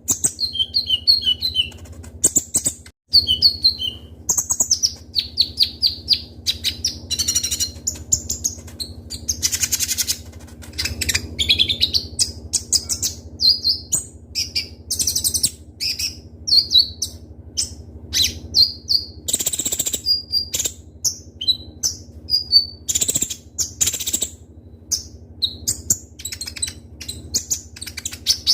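Kolibri ninja (konin) sunbird singing a fast, sharp song: rapid high chirps, trills and quick rattling phrases following one another with barely a pause, over a faint steady hum.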